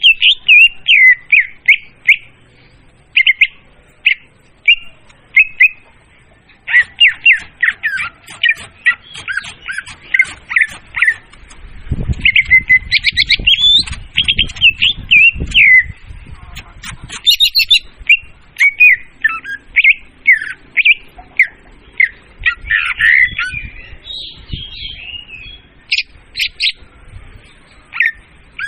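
Leafbird song played as a bird-hunting lure call: loud, quick runs of varied chirps and squawky notes in phrases separated by short pauses. A low rumbling noise sits under the song for a few seconds in the middle.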